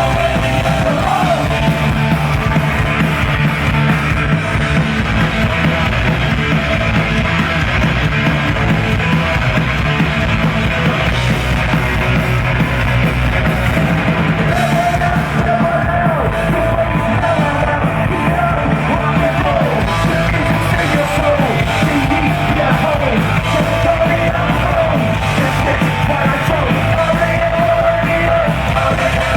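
Live hard rock band playing a fast punk-rock song loudly: distorted electric guitars, bass and drums, with a lead line held and bent in pitch.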